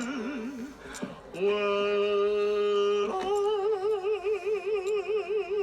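A voice holding long, drawn-out sung notes. A steady lower note gives way about three seconds in to a higher one with a fast wobbling vibrato.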